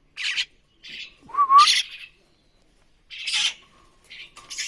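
Young crested mynas giving harsh begging squawks while being hand-fed: about five short, scratchy calls, one with a brief rising whistled note in the middle.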